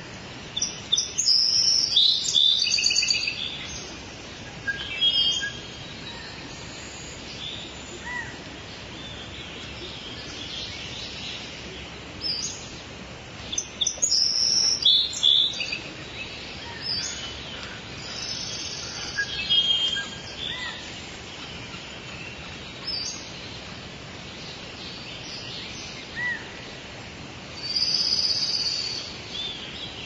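Rainforest ambience: birds singing and calling in repeated bursts of high chirps and trills over a steady background hiss. The loudest bursts come about a second in, around the middle and near the end.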